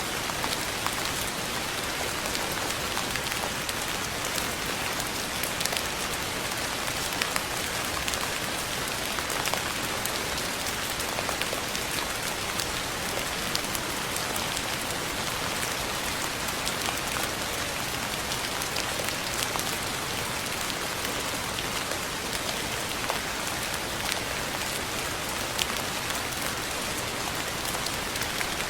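Steady rain falling, an even hiss peppered with the sharp ticks of individual drops hitting a surface.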